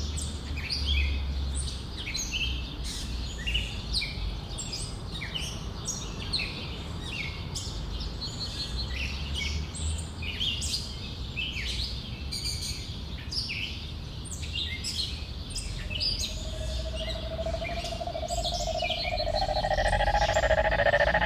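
Many small birds chirping in short, quick, mostly falling calls over a low rumble. A sustained tone fades in during the last five seconds or so, leading into music.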